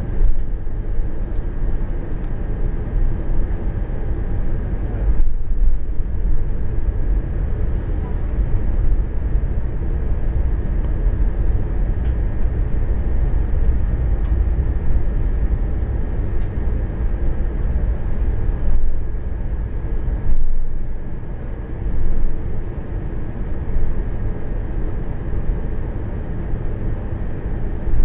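Airbus A340-300 cabin noise while taxiing: a steady low rumble of the CFM56 engines at idle, with a faint steady whine and a few brief bumps.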